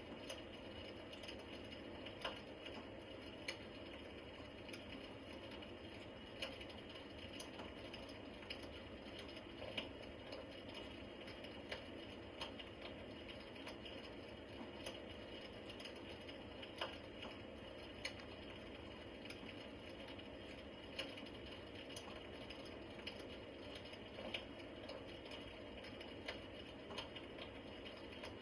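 Wood fire crackling in a fireplace: a faint steady hiss with irregular sharp pops and snaps every second or so.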